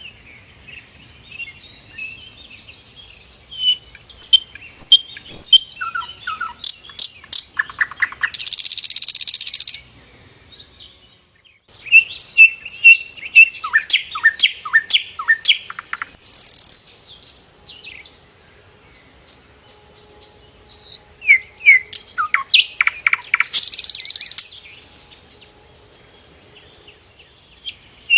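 A sikatan londo (a flycatcher) singing in bouts of rapid chips and short falling whistles. Some bouts end in a harsh, buzzy rasp about a second long, and there are pauses of a few seconds between bouts.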